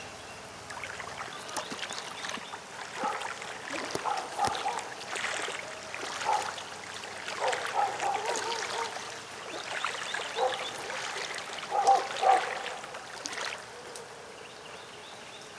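Floodwater splashing and trickling in irregular spurts, mixed with short, wavering pitched calls or cries that come and go, dying down about two seconds before the end.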